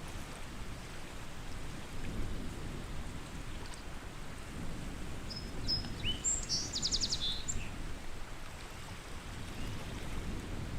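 Lake water lapping in a steady wash that swells and eases, with a small songbird calling about halfway through: a few high whistled notes, then a quick trill.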